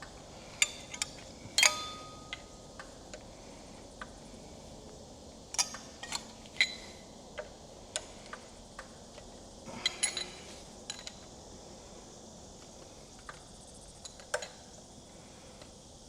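Scattered sharp metallic clicks and clinks of hand tools and compression-tester fittings being handled on an engine. One clink about a second and a half in rings briefly.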